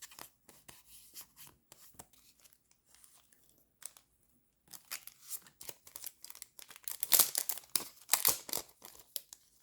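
Sticker packets being handled: light clicks and rustles at first, then crinkling of packaging, loudest around seven to eight seconds in.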